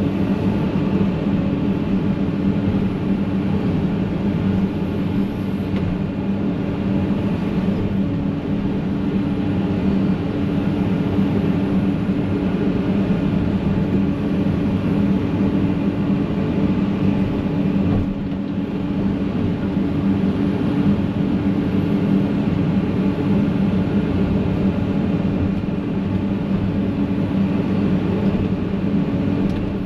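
Excavator's diesel engine running steadily under load while digging out a stump, with one short knock a little past halfway.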